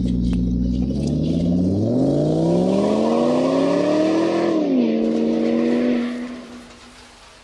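Car engine accelerating hard. The pitch climbs for about two and a half seconds, drops once at an upshift, holds briefly, then fades out about six seconds in.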